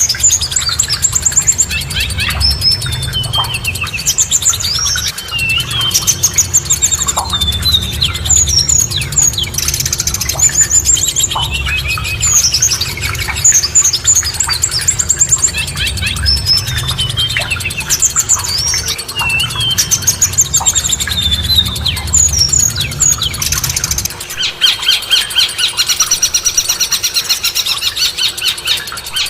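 Songbirds singing rapid chirps, whistles and trills. About 24 seconds in it switches to a different, denser trilling song, and the low rumble under the first part stops.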